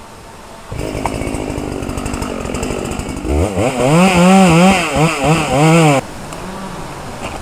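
Chainsaw running, then revving hard from about three seconds in, its pitch rising and dipping repeatedly as the engine is throttled. The loud revving drops away abruptly about six seconds in, leaving a quieter running sound.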